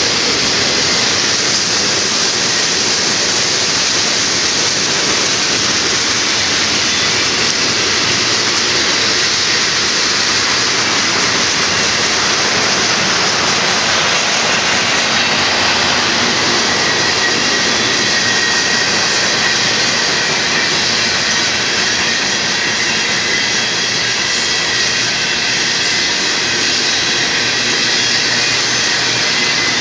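Union Pacific freight train's cars rolling past close by: a steady, loud rush of steel wheels on rail with a strong high hiss. About halfway through, faint high ringing tones appear in the wheel noise.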